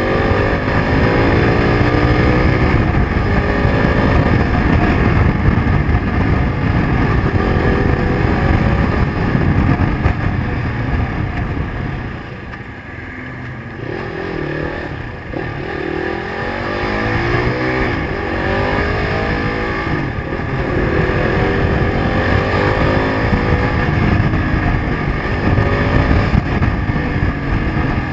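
Zongshen RX3 (Corven 250 Touring) single-cylinder engine revving up and falling back again and again as the bike accelerates and slows through slow traffic, with dense wind rumble on the microphone. The engine eases off for a few seconds about halfway through, then picks up again.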